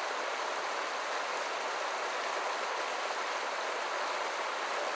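Creek water rushing steadily over its bed, an even running-water noise.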